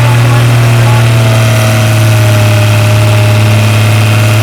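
Tractor engine running loud at a steady, even speed, with no change in revs.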